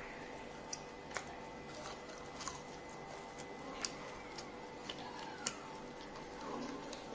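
Chewing a crispy fried chicken strip: sharp, irregular crunches every second or so over a faint steady hum.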